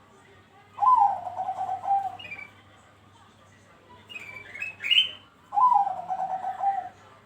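Zebra dove (perkutut Bangkok) singing: two cooing phrases, each a higher opening note falling into a quick run of short staccato coos. Between the two phrases come some higher chirps.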